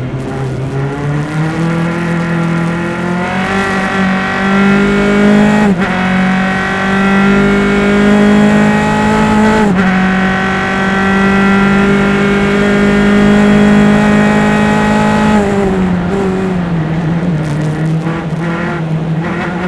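A single-seater formula race car's engine, heard from on board through engine-mounted microphones, running hard under acceleration. Its pitch climbs and drops sharply at about six and ten seconds as it shifts up. It holds near full speed, falls away through braking and downshifts around the sixteen-second mark, then rises again as the car accelerates out.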